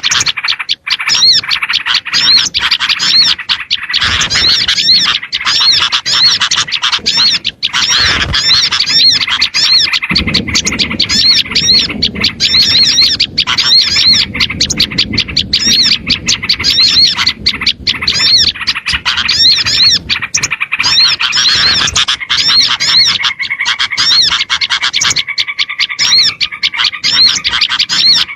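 A dense, unbroken chorus of many small birds chirping and calling over one another, with quick repeated high arched chirps: a small-bird lure recording mixed with noisy bulbul calls.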